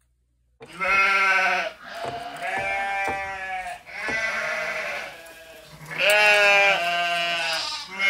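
A person's voice imitating a horse whinnying: a run of long, wavering, bleat-like calls, four or five in a row, each about a second long.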